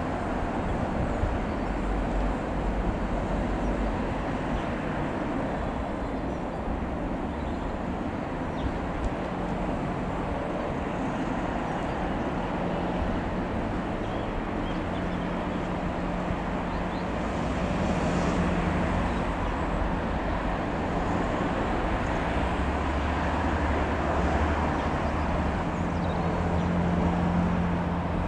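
Piper PA-28-180 Cherokee's single four-cylinder piston engine and propeller droning steadily in flight, over outdoor noise. The drone grows a little louder twice, about two-thirds of the way in and again near the end.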